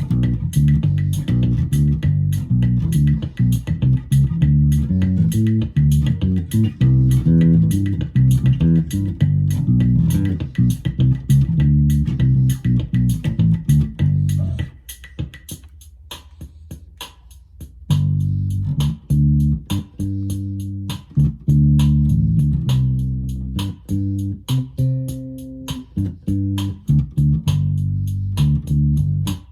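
Electric bass played through a Roland Micro Cube Bass RX amp over its built-in rhythm box drum pattern, an improvised bassline. The bass stops for about three seconds midway while the drum beat keeps going, then comes back in.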